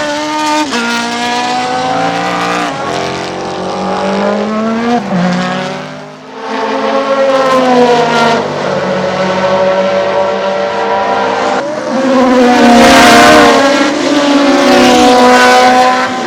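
Ferrari 156/85 Formula 1 car's 1.5-litre twin-turbo V6 running at racing speed, its pitch stepping down and back up through gear changes. The level dips briefly about six seconds in, and the engine is loudest from about twelve seconds in as the car comes close.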